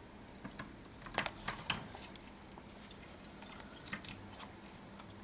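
Light, irregular clicks and taps from pet cockatiels moving and pecking about, with a quick cluster of louder clicks a little over a second in.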